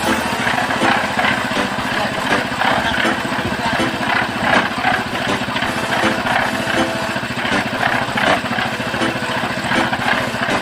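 An engine-driven machine running steadily with a fast, even rattle.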